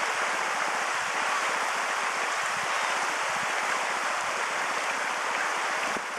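Creek swollen with spring meltwater, rushing steadily over and around the remains of a bridge.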